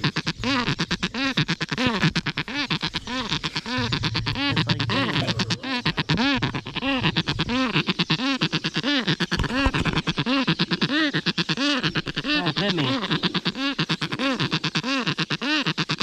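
A large black-and-white long-billed bird calling over and over at very close range: harsh, buzzy calls, each rising and falling in pitch, about two a second without a break.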